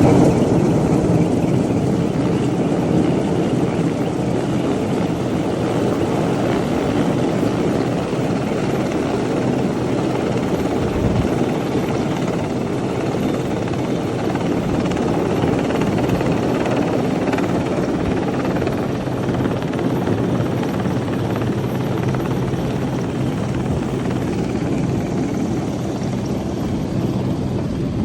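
A rescue helicopter's rotor and engine running steadily and loud.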